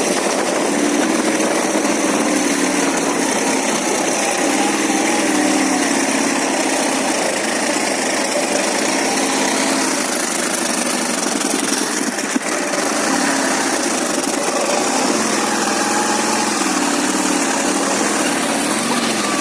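Ural motorcycle's flat-twin engine running under way, its pitch rising and falling with the throttle over a steady hiss.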